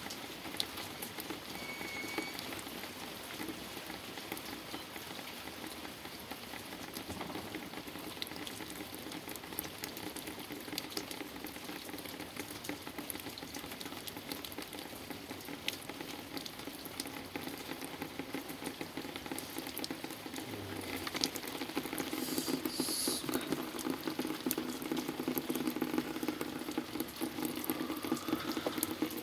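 Wet snow and ice pellets pattering densely on surfaces, a fine crackling hiss of many small hits that grows louder about two-thirds of the way through.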